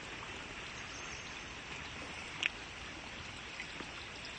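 Irrigation water running steadily into a rice paddy, an even rushing trickle, let in because the end of the paddy is drying out. One short click about halfway through.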